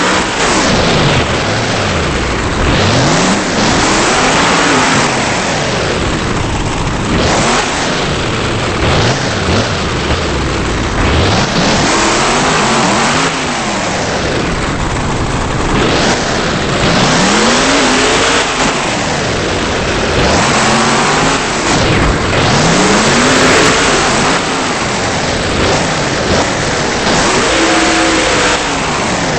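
Monster truck engine revving again and again, its pitch climbing and falling every few seconds, loud and distorted in an overdriven recording.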